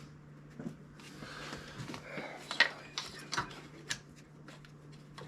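Hand tools clicking and clinking against metal parts while working in a car's engine bay, with a few sharp clicks between about two and a half and four seconds in, over a faint steady hum.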